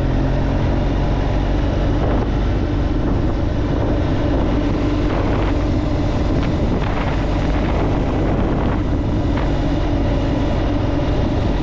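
BMW R1200GSA's boxer-twin engine running at a steady note while the bike climbs a mountain road, mixed with wind and road noise.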